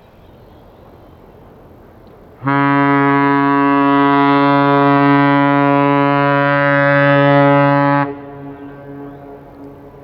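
Ship's horn sounding one long, steady blast of about five and a half seconds, which cuts off suddenly and echoes briefly afterwards.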